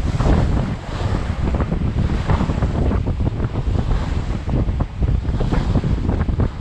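Strong wind buffeting the microphone in a heavy low rumble, over water rushing and splashing along the hull of a sailing yacht under way at speed.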